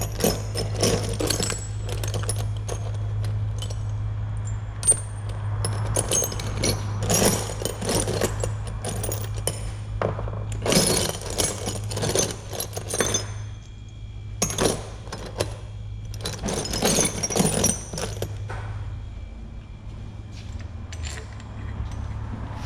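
Metal hand tools clicking and clinking in several bursts while a puller is worked on a stubborn, tight harmonic balancer of a Ford 5.0 Coyote V8. A steady low hum runs underneath.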